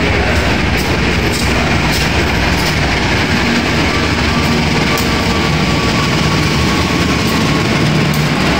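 Diesel-electric locomotive hauling a passenger train past a station platform: a steady engine rumble as the locomotive goes by, then the carriages rolling past with the wheels clacking over the rails.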